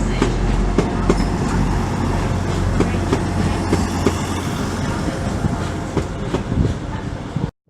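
Train running on the rails: a steady rumble with wheels clicking over rail joints, cut off abruptly near the end.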